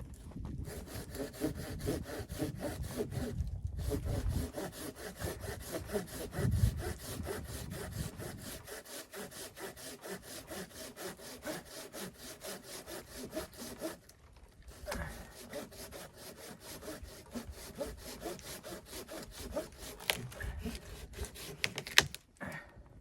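Hand saw cutting through wood in quick, steady back-and-forth strokes, pausing briefly twice, with a couple of sharp clicks near the end.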